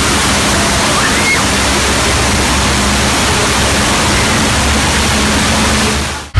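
Staged flash flood from the Earthquake set's burst water main: a loud, steady rush of pouring water that cuts off suddenly near the end.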